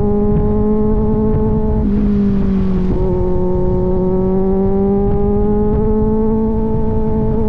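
Kawasaki Z900 inline-four through an aftermarket AR exhaust, running steadily under way. Its note sags briefly about two seconds in, with a short hiss, then rises slowly as the bike picks up speed.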